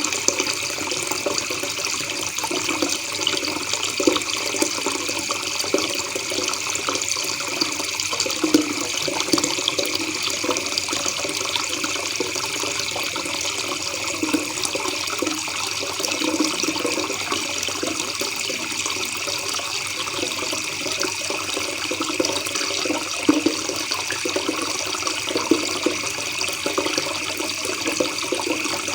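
Shallow river water babbling and trickling steadily, with small gurgling blips.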